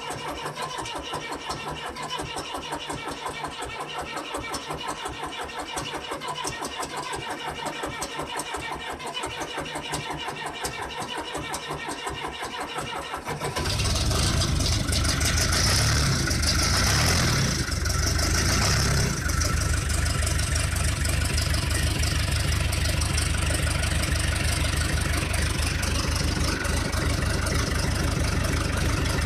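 John Deere 2030 tractor's diesel engine cranking on the starter in a long, hard cold start below freezing. About thirteen seconds in it catches and runs, uneven for a few seconds before settling into a steady run.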